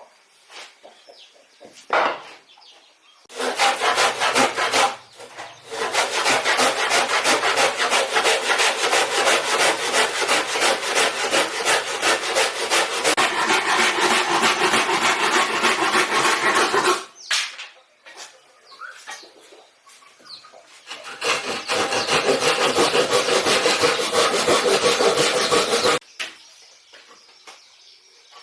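Wood being sawn by hand in quick, even strokes. A short run is followed by a long steady run that stops abruptly, then a pause, then a second run of about five seconds.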